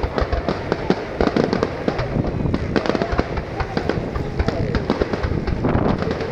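Fireworks display going off in quick succession: a dense, unbroken run of bangs and crackles, with people's voices underneath.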